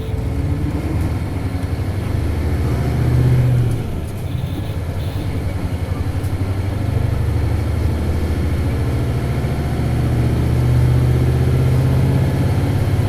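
Isuzu 8PE1-S V8 diesel engine of an Isuzu Cubic city bus, heard from inside the bus, revved hard under acceleration. The revs climb to a peak, fall off sharply a little under four seconds in, then build again through the rest of the stretch.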